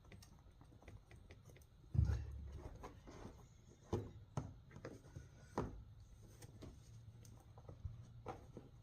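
Utility knife cutting and scraping at material, with scattered clicks and a dull knock about two seconds in.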